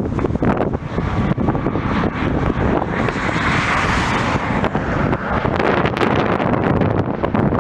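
Jet airliner passing, its engine noise swelling to a peak about halfway through and fading again, under heavy wind buffeting the microphone.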